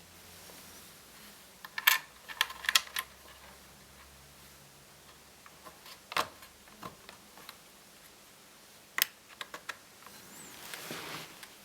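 Sharp clicks and taps of plastic and metal laptop parts being handled: a short cluster, a single click, and another cluster. Near the end comes a soft rustle.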